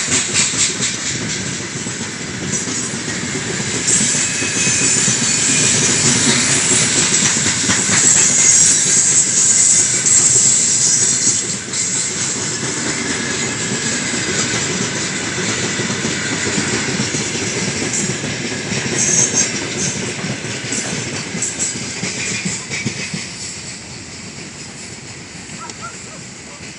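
A long freight train of new gondola cars rolling past, the wheels clicking over the rail joints with a hiss of wheel and rail noise. The sound fades from about two-thirds of the way in as the train moves off.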